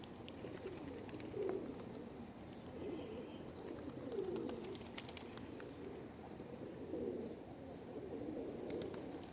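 Feral pigeons cooing, several low coos following and overlapping one another throughout, with scattered faint clicks.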